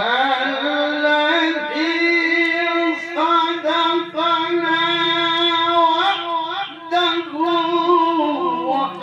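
A male qari's voice in melodic Quran recitation (tilawah), holding a long, ornamented note on one steady pitch with small wavering turns and brief breaths between phrases.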